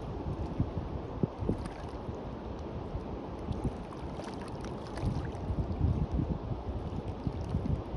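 Wind buffeting the microphone with a low, gusty rumble, over the faint fizz and wash of waves on the beach.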